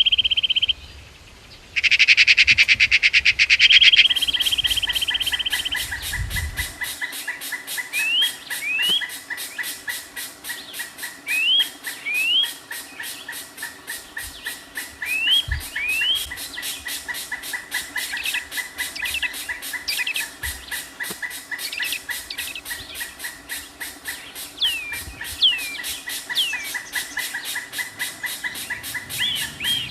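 Wild birds calling: loud harsh calls for the first few seconds, then short rising chirps, often in pairs, repeated every few seconds over a steady, fast-pulsing chorus.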